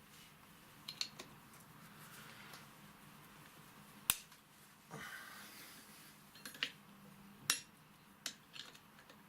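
Sharp metal clinks and taps of hand tools and parts as a truck starter motor is unbolted and taken apart, about seven scattered clicks with a short scrape about five seconds in.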